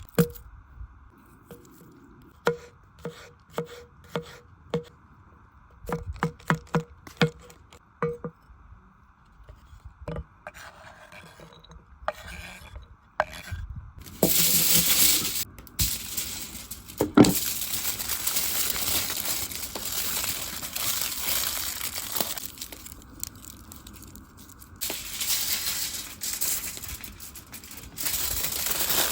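Food-prep handling sounds: a string of sharp knocks, each with a short ring. About halfway through comes loud crinkling and rustling, likely aluminium foil being wrapped around a potato, which stops and starts abruptly a few times.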